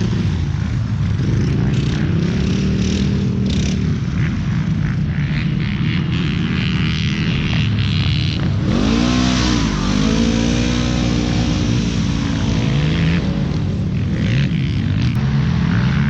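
ATV engine revving up and down as it is ridden, its pitch rising and falling several times, with the strongest rise and fall about nine seconds in.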